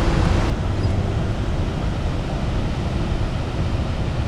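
Steady, loud rush of a waterfall on a river in spate, swollen by rain and snowmelt. A music track's last notes end about half a second in.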